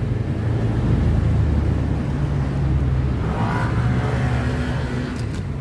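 Motor vehicle engine running close by: a steady low rumble, heaviest in the first couple of seconds.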